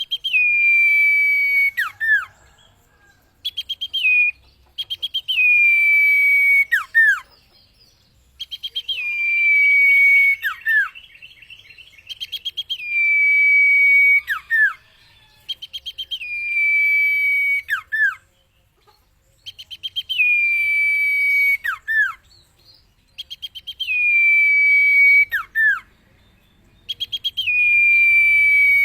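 Common iora (cipoh) singing the same phrase over and over, about eight times, roughly one every three to four seconds. Each phrase is a quick stutter of rapid notes, then a long high whistle that slides down a little and holds, ending in a sharp downward-swooping note.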